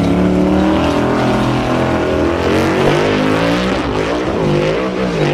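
Engine of a full-size off-road tube-frame buggy revving hard as it climbs a steep dirt hill, its pitch surging up and down as the throttle is worked, more unsteadily in the second half.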